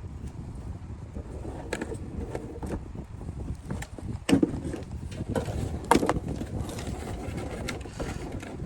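Scattered light clicks and knocks of PC power-supply cables and their plastic connectors being handled, about half a dozen in all, over a steady low background rumble.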